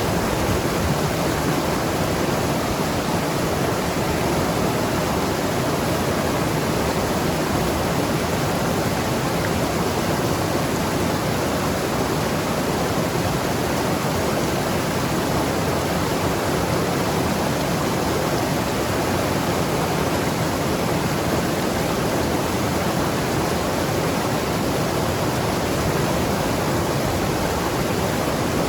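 Mountain river rushing and gurgling over rocks, a steady, unbroken flow.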